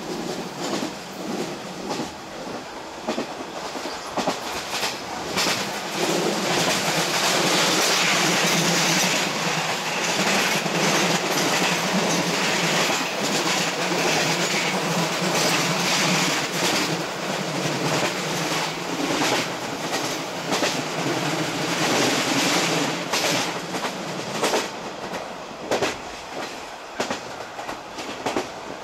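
Passenger train running along the line, heard from inside the car at a side window: a steady rolling rumble and wheel noise with repeated clickety-clack as the wheels cross rail joints. It grows louder a few seconds in and eases off near the end.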